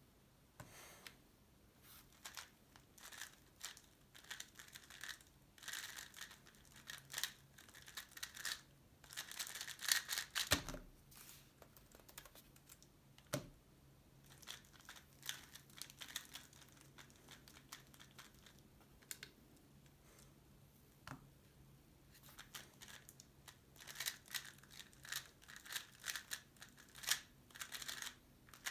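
QiYi X-Man Tornado V3 Pioneer 3x3 speedcube being turned fast: rapid bursts of clicking and clattering layer turns in runs, easing off for a few seconds past the middle, with a couple of dull knocks around the middle.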